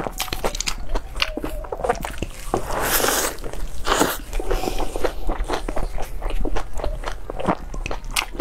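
A person biting into and chewing a large meat-filled flatbread close to a clip-on microphone: a run of short clicks and crunches, with two louder, longer crunches about three and four seconds in.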